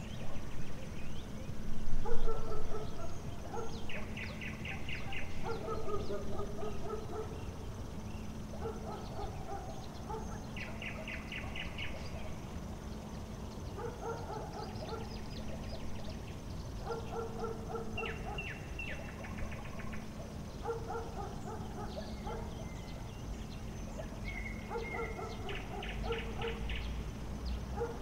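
A bird singing short repeated phrases every few seconds, some ending in a quick rattling trill, over a steady low hum. There are a few louder sounds in the first six seconds.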